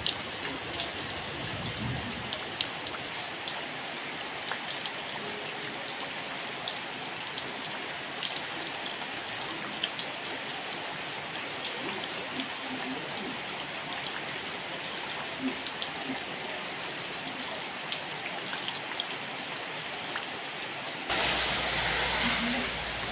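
Steady heavy rain falling, with many close drops ticking and splashing. It grows louder and deeper near the end.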